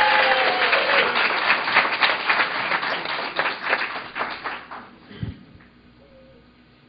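Audience clapping and applauding, with one voice holding a long, slowly falling call in the first second; the clapping thins out and dies away about five seconds in.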